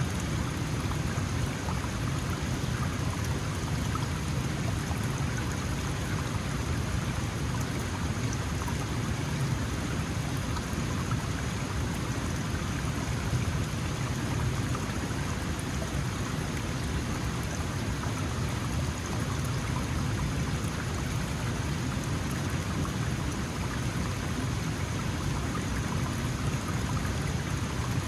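Small mountain stream flowing and splashing steadily over stones.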